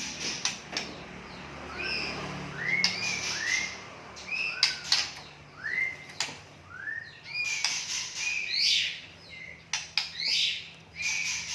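White-rumped shama (murai batu) singing: a varied run of clear whistled notes, many sweeping upward in arcs, mixed with sharp clicks.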